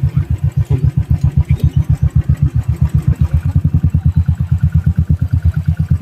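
Royal Enfield Classic 350's single-cylinder engine running at low revs through a loud exhaust: a steady, even beat of about ten pulses a second.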